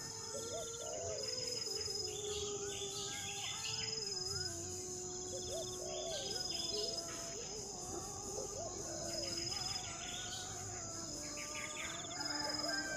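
Steady, high-pitched insect buzz with assorted bird chirps and calls over it.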